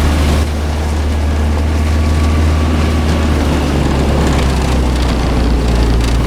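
Engine of a vehicle being driven at about 25 mph, a steady low drone with road and wind noise over it; the engine note shifts slightly near the end.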